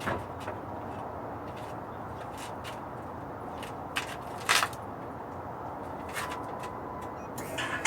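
Cummins diesel running at idle through a 4-inch exhaust tip just after a cold start, the engine having sat for a week: a steady, even noise with scattered sharp ticks, the loudest about four and a half seconds in.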